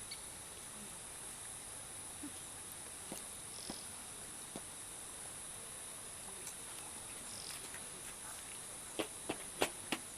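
Insects, crickets or cicadas, keeping up a steady high-pitched drone of forest ambience. Scattered faint ticks are heard, and about nine seconds in comes a quick run of four sharp clicks.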